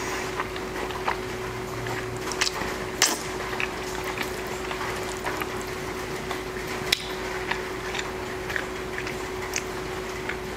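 Steady rain heard through an open window as a continuous hiss, with scattered wet mouth clicks and smacks of close-up chewing throughout, over a faint steady hum.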